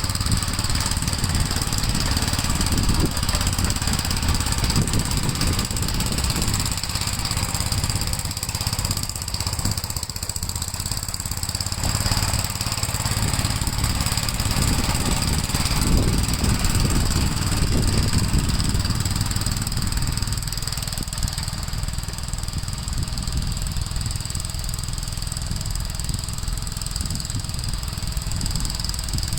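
Gravely L8 walk-behind tractor's single-cylinder engine running steadily under load while plowing snow.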